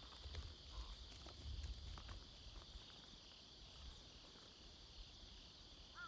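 Faint, steady chirring of insects, with a few soft clicks and knocks.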